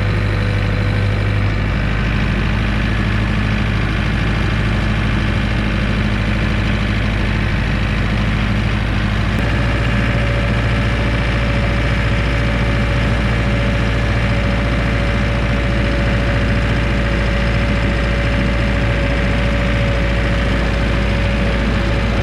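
Landtrac 450 tractor engine running steadily while driving, with a small rise in engine speed about nine seconds in.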